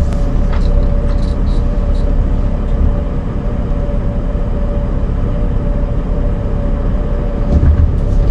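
RV engine and road noise heard from inside the cab while driving slowly: a steady low rumble with a constant hum, growing louder near the end as the engine pulls harder.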